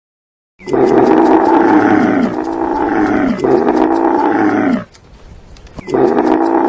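An animal giving a run of loud, drawn-out calls, each falling in pitch, with a brief break about five seconds in before the calls start again.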